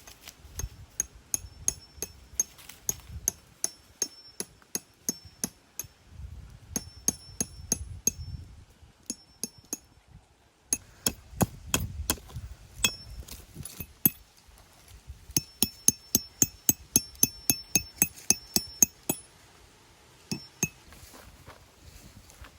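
Repeated sharp strikes with a metallic ring, about three to four a second, in runs of several seconds broken by short pauses.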